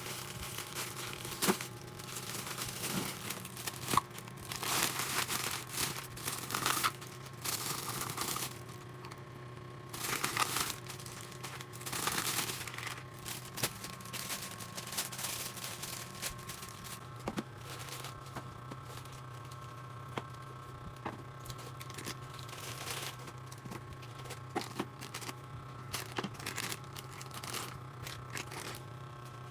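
Crinkly material being handled and torn in a series of rustling bursts, busiest in the first half and fainter and more scattered afterwards, over a steady low hum.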